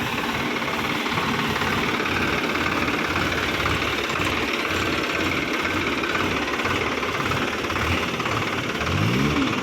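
Sonalika DI 740 tractor's diesel engine running at idle with a steady knocking throb. It revs up briefly near the end.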